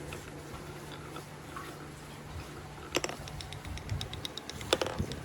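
Marbles rolling and clicking along a marble run track, with a sharp clack about three seconds in, another near the end, and a quick run of small ticks between and after them. A steady low hum runs underneath.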